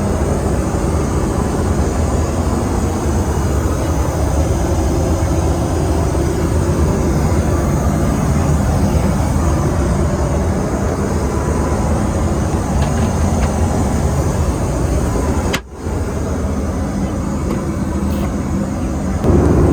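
Steady noise of a Boeing 737-800 cabin in flight, the airflow and engines making an even, low-heavy roar. It drops out for an instant near the end, then carries on.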